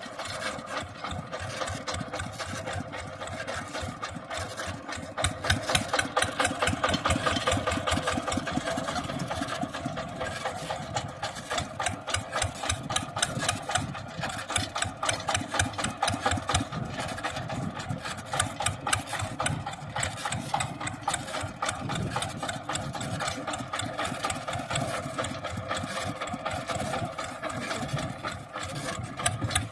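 Mini tractor's engine running steadily with a rapid, even chugging beat.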